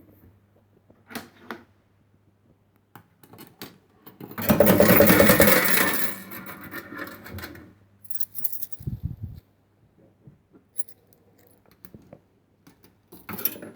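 Penny fruit machine in play: scattered clicks from its buttons and mechanism, and a loud clatter of coins dropping that lasts about a second and a half, starting about four and a half seconds in and then trailing off. A low thump follows a few seconds later.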